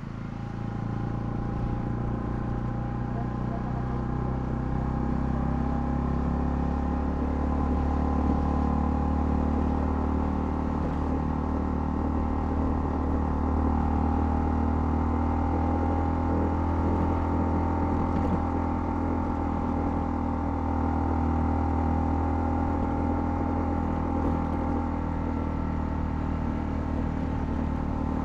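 Honda CL250 motorcycle engine running while riding. It grows louder over the first second or two, then holds a steady note with a change in its pitch about six seconds in.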